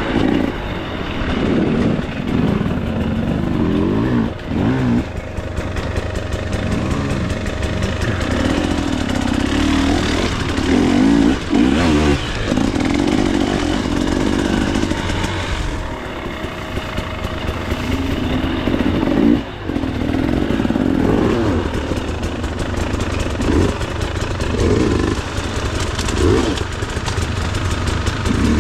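Single-cylinder two-stroke engine of a 2024 KTM 300 XC-W dirt bike revving up and down as it is ridden along a trail, the throttle opening and closing constantly, with a few brief drops off the throttle.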